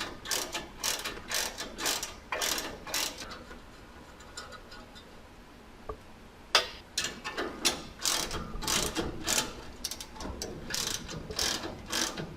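Hand ratchet wrench clicking in quick strokes, about three a second, as a bolt is turned, in two spells with a pause of about three seconds between them.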